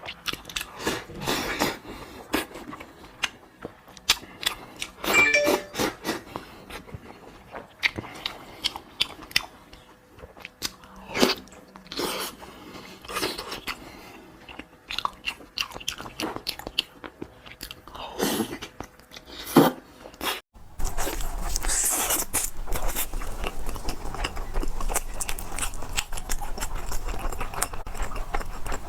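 Close-up eating sounds: biting and chewing with sharp crunches and wet clicks. About 20 seconds in the sound changes suddenly to a louder, denser crunching over a steady low rumble.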